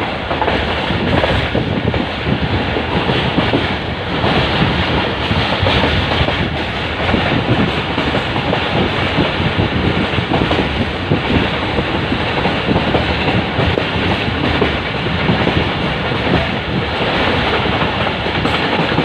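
Karachi Express passenger train running steadily along the track, a continuous rumble with the wheels clattering over the rail joints.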